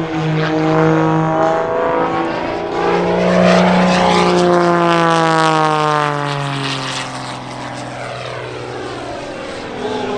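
Wolf Pitts Pro aerobatic biplane's engine and propeller, loud and throbbing through a double hammerhead. The pitch climbs over the first few seconds, peaks around four seconds in, then falls slowly as the power comes off.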